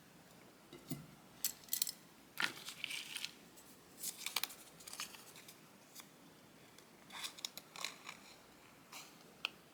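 Scissors snipping sticker paper in short, irregular cuts, with paper rustling as the sheet is handled.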